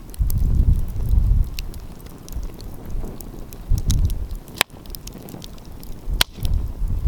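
Wood fire crackling with scattered sharp pops, two louder pops about a second and a half apart in the second half, over a low, gusty rumble of wind on the microphone.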